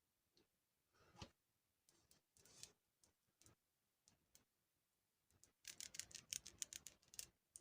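Faint, close-up clicks and light taps on small objects, spaced out at first, then a quick flurry of rapid clicking and tapping about five and a half seconds in.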